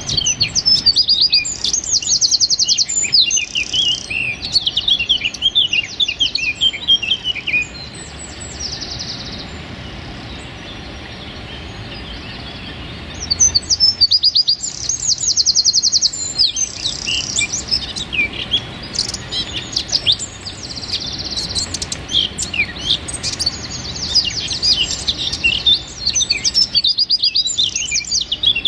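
A wren singing in bursts of rapid, high trills and fast chattering notes, with a pause of about five seconds before the song resumes.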